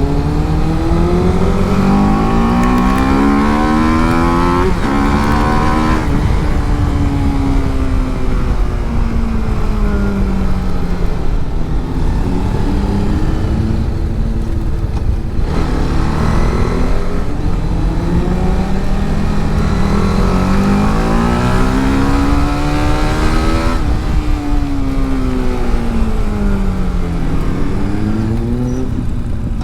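TVS Apache RR310's single-cylinder engine pulling hard through the gears with a sudden drop in pitch at a gearshift, then falling away as the bike slows. It climbs again for several seconds and falls once more near the end. A constant rush of wind runs underneath.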